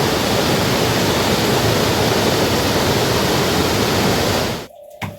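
A steady, loud rush of water noise that cuts off suddenly near the end.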